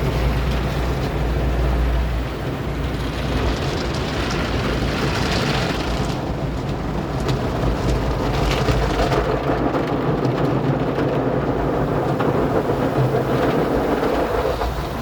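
Car wash in progress: a steady rush of water spraying onto the car, with a low machine rumble underneath.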